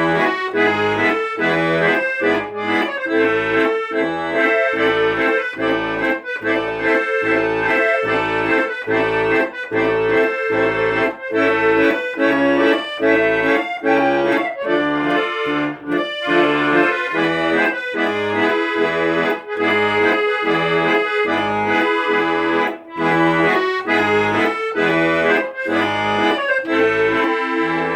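Instrumental accordion music: sustained melody and chords over a steady, evenly repeating bass beat.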